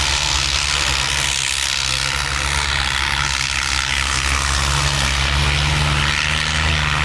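Tractor diesel engine running steadily under heavy load while pulling a harrow, with a steady noisy hiss over the top.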